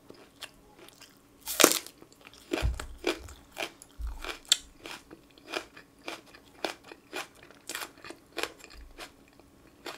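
A crisp, loud bite into a raw green onion stalk about a second and a half in, then steady crunchy chewing of the raw onion, roughly two chews a second, picked up close to the mouth.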